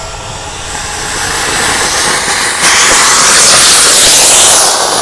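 Home-made sugar rocket motor (potassium nitrate and sugar) burning with a loud hiss that builds, jumps sharply louder about two and a half seconds in, and eases off near the end.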